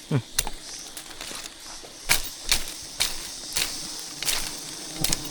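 Sharp knocks or snaps, about six of them at irregular intervals, over a steady outdoor hiss.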